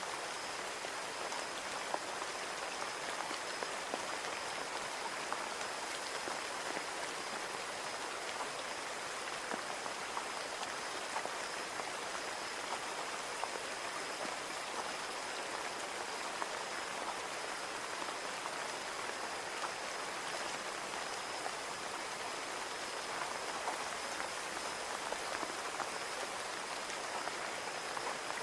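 Steady rain falling on a window: a constant hiss with many small drops tapping on the glass.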